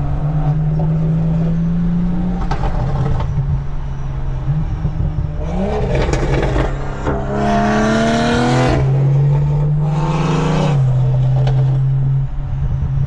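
Car engine accelerating hard through the gears: the pitch climbs with the revs and drops at each upshift, and the exhaust grows loud and raspy on the hardest pulls.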